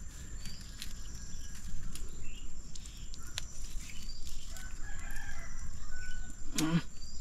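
Faint bird calls over a low outdoor rumble, with a few light knocks and one short, louder call near the end.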